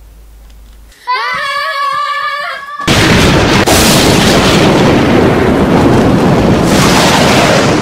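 A child's voice cries out on a held high note for about two seconds, then a loud, dense explosion-like rumble sound effect sets in and runs on for about five seconds.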